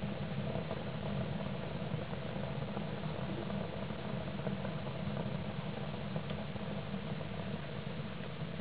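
Homemade pail-can rocket stove burning firewood: a steady low rush of the draft through the burner, with a few faint crackles from the burning wood.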